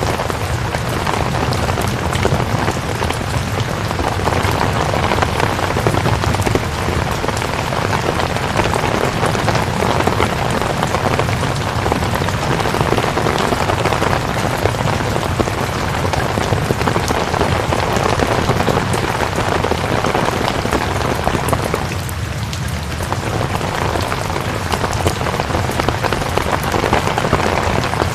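Steady rain falling, a dense even patter of many drops with a low rumble beneath.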